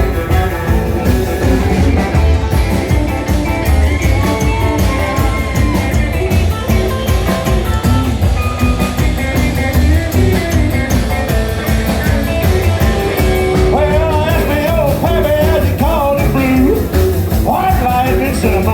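Rock and roll band playing an instrumental break between verses, guitar over a steady bass and drum beat.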